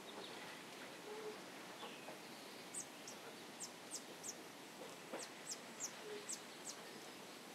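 Faint nature ambience: a bird gives a run of about ten short, very high chirps, each falling in pitch, starting about three seconds in, over a steady soft background.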